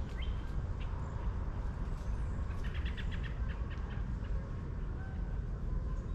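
Small birds chirping in short calls, with a quick run of repeated chirps about three seconds in, over a steady low rumble.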